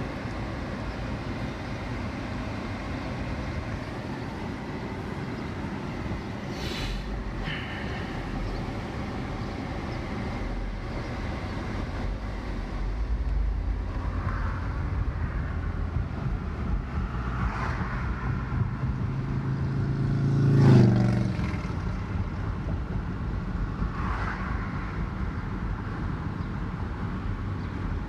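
Steady road and engine rumble of a moving car, with a few brief passing swells and one louder swell that peaks about three-quarters of the way through.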